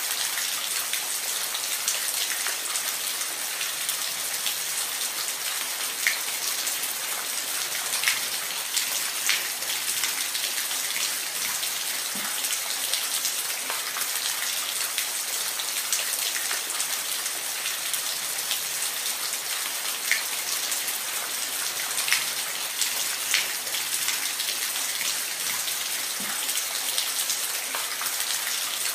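Steady rain, an even hiss with scattered louder single drops ticking every second or two.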